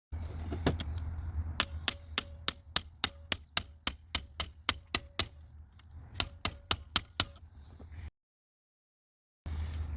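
A quick, even series of sharp metallic clicks with a short ring, about three or four a second, in two runs, over a steady low hum.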